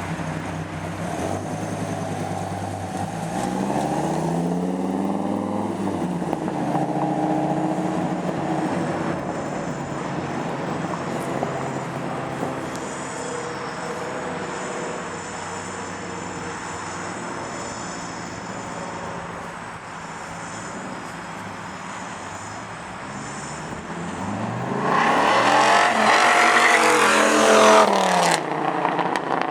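Dodge Viper V10 engine running, its pitch rising and falling with a rev a few seconds in. It rises and falls again much louder near the end.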